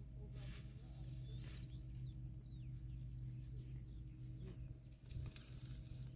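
Small birds chirping in short rising and falling notes over a steady low hum.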